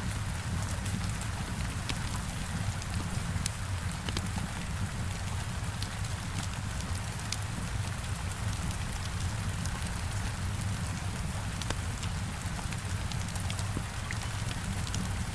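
Heavy rain falling steadily on a window, a dense even patter over a deep low rumble, with scattered sharp ticks throughout; a wood fire crackles faintly beneath it.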